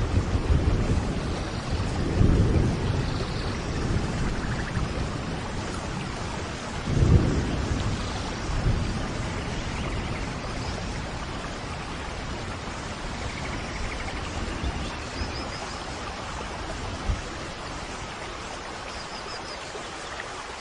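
Steady rain with low rolls of thunder, the strongest about two and seven seconds in, easing to a quieter rain later on.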